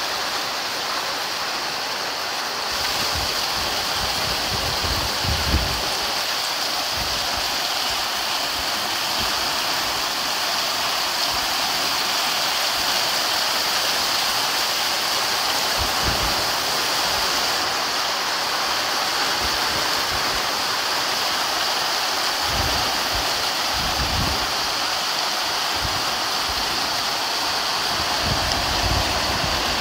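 Heavy rain pouring steadily, a dense even hiss. A few low rumbles come through on the microphone, about five seconds in, around sixteen seconds, and again later on.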